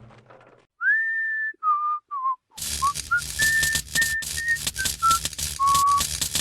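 A person whistles a short, casual tune in clear single notes. About two and a half seconds in, a dense, crackling hiss starts beneath the whistling and keeps going: an electric welding arc being struck and run.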